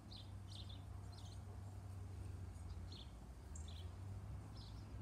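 Small birds chirping faintly: short, high chirps, some sliding down in pitch, about two or three a second, over a steady low hum.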